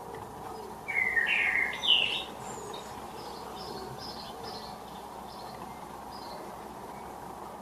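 Common blackbird singing: one loud, low warbled phrase about a second in, followed by a string of faint, high twittering notes, over steady background noise.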